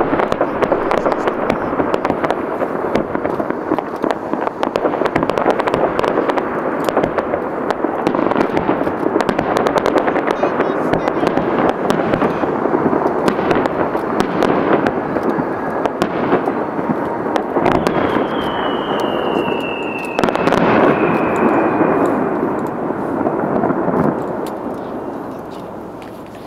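Fireworks display: a dense, continuous crackling of many shells bursting at once. A falling whistle comes about 18 seconds in, a loud burst about 20 seconds in, and then the crackle dies away near the end.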